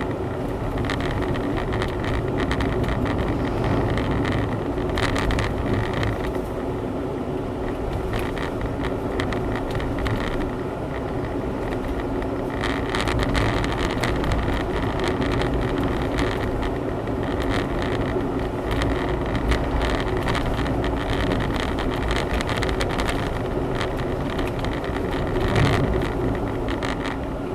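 Honda Zest kei car's 660 cc three-cylinder engine running steadily with tyre and road rumble, heard from inside the cabin while driving.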